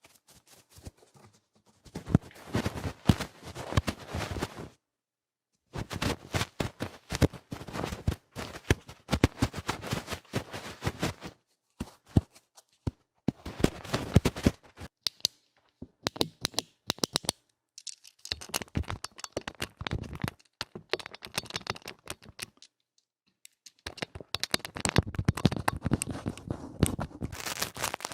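ASMR ear cleaning: vigorous, loud scratching and scraping at a microphone's ear, coming in dense runs of several seconds broken by pauses of about a second, once early on and once past the middle.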